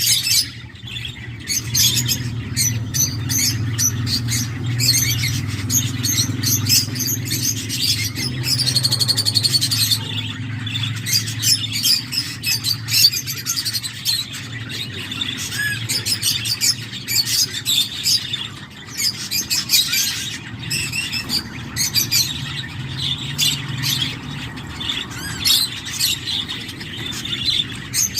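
Nestling cockatiels making rapid, raspy chirping and squawking begging calls that go on almost without pause, over a steady low hum.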